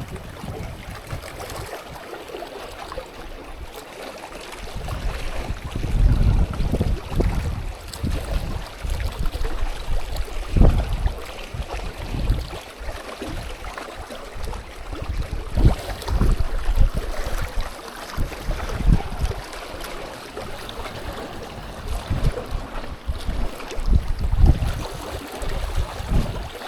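Strong, gusty wind buffeting the microphone: irregular low rumbles that swell and fade every second or two over a steady rush of moving air.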